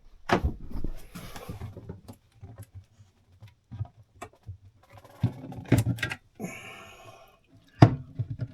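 Knocks and clunks of things being handled and moved around, with a short scraping rasp about six and a half seconds in.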